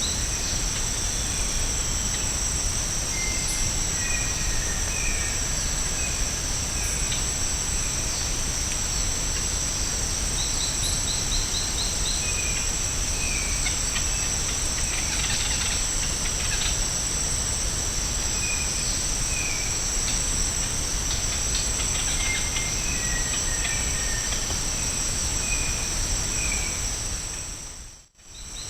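Tropical rainforest ambience: a steady high-pitched insect chorus, with scattered bird calls of short paired notes and a couple of brief rapid trills. The sound fades out abruptly and returns near the end.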